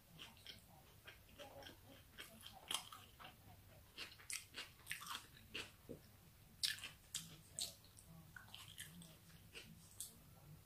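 Quiet, close-up chewing of a chicken fajita wrap: irregular short wet mouth clicks and smacks, with a fresh bite into the tortilla near the end.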